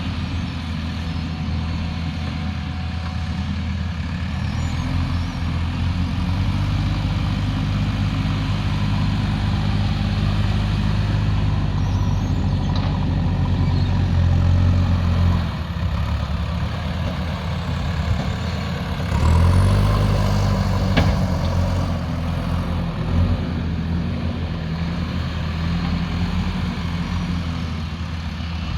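Heavy earthmoving machine's diesel engine running and working under varying load, swelling in pitch and loudness about two-thirds of the way through. A single sharp knock comes shortly after the swell.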